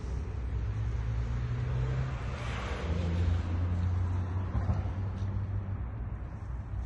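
Scania S500 truck's 13-litre straight-six diesel engine idling steadily, with a louder rush of noise about two and a half seconds in and a smaller one near five seconds.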